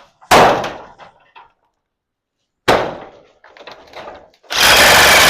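Two sharp knocks about two and a half seconds apart, each dying away over about a second, then a loud steady rushing noise that starts near the end.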